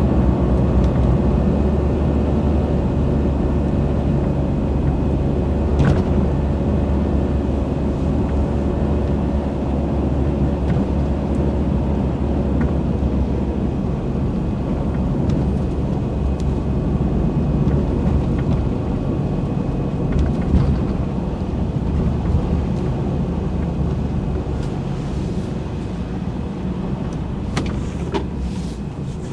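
Truck engine running steadily with a low drone, with a few light clicks about six seconds in and again near the end.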